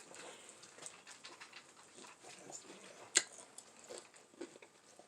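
Faint, close-up chewing and mouth sounds of someone eating, a scatter of small wet clicks with one sharper click about three seconds in.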